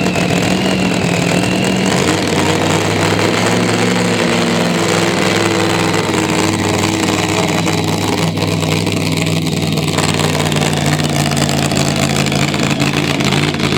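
Engine of a truck or tractor in a pulling competition running loud and steady, its pitch stepping down about two seconds in and shifting again a few seconds later.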